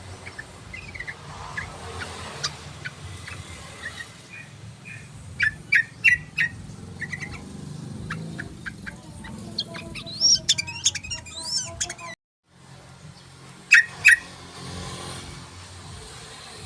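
Yellow-vented bulbul (trucukan) calling and singing: scattered short chirps, a few loud sharp notes in quick pairs, and a run of fast warbling about ten seconds in. The sound cuts out for a moment just after twelve seconds, over a low steady hum.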